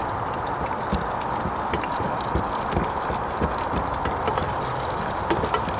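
Onions and garlic frying in hot oil in a Trangia pot on a gas burner: a steady sizzle with small crackles, and a few light knocks.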